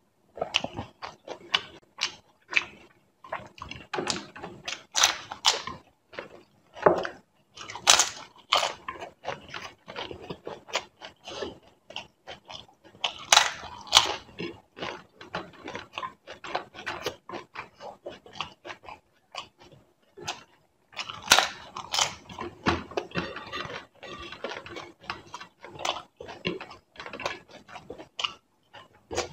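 Close-miked chewing of a mouthful of crisp fried puri, with many irregular sharp crunches and mouth clicks. The chewing stops briefly about twenty seconds in.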